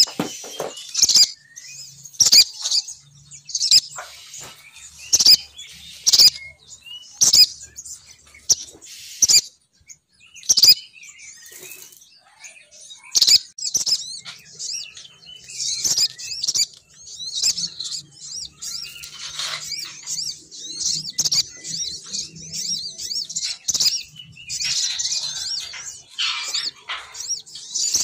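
Female sogon bird calling as a bird-catching lure: sharp, high chirps repeating about once a second, turning into denser, near-continuous chattering in the second half.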